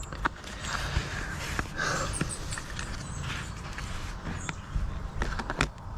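Light rustling and scattered small clicks from paper being handled and marked at close range, over a low background rumble.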